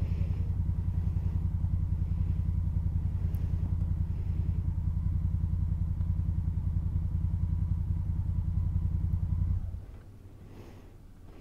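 Adventure motorcycle engine running steadily with an even low pulse, then stopping suddenly near the end.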